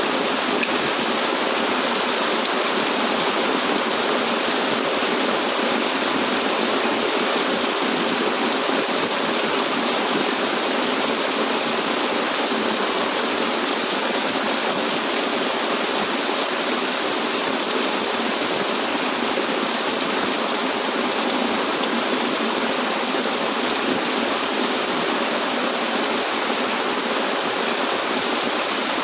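Steady rain falling, a dense even hiss of rain with no single drops or thunder standing out.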